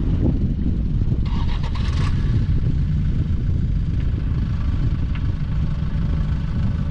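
Toyota Hilux engine idling steadily, the vehicles hooked up by snatch strap to pull a bogged Hilux out of soft sand. A brief higher sound comes about a second in.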